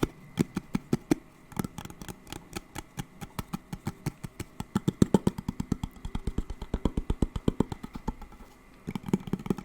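Rapid, even tapping on a hard object close to the microphone, several taps a second, loudest in the middle and easing briefly near the end.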